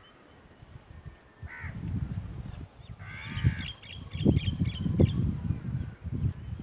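Crows cawing: one call about a second and a half in, then a harsher run of caws around three seconds in, with higher chirps after. Low, gusty rumbling of wind on the microphone underneath is the loudest sound.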